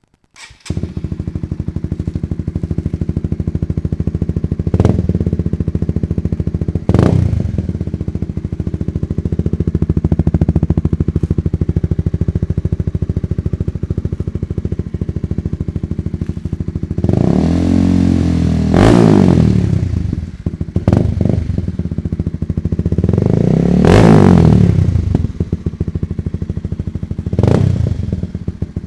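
Honda CBR150R's single-cylinder 150 cc engine breathing through a Kazen Pro Exhaust aftermarket slip-on silencer: it starts about half a second in and idles, with short throttle blips and two longer revs that rise and fall. A moderate, not very deep or loud exhaust note.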